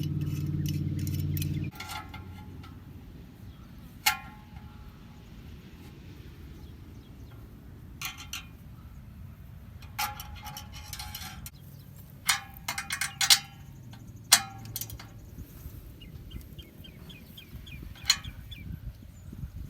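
Metal tools and exhaust clamps clinking against each other now and then, with a socket ratchet clicking in a quick run about three-quarters of the way through, as band clamps are fitted and tightened on an exhaust tip. A steady low hum cuts off suddenly in the first two seconds.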